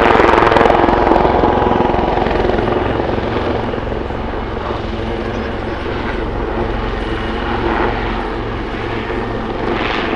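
Two Royal Navy Wildcat HMA.2 helicopters flying close by: fast rotor-blade chop over a steady turbine whine, loudest in the first couple of seconds and then a little fainter.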